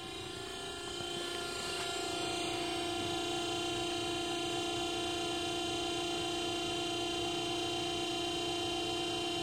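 A steady machine hum with several fixed tones over a low rumble, growing louder over the first two seconds and then holding level.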